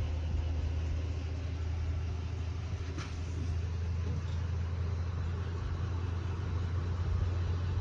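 Steady low rumble of a train running in the distance, with a faint click about three seconds in.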